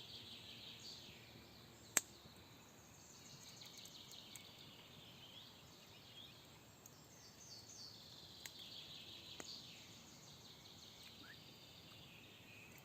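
Faint songbirds singing and trilling in woodland, with one sharp click about two seconds in.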